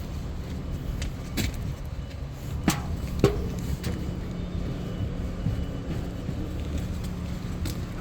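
A steady low engine rumble, with a few sharp clicks or knocks over it.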